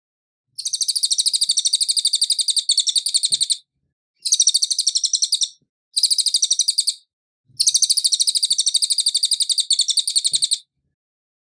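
A cililin songbird singing in four bursts of rapid, high-pitched repeated notes, about eight a second, separated by short silences. The two outer bursts last about three seconds and the middle two about a second each. It is a clean song recording of the kind used as a tutor track for other cage birds to copy.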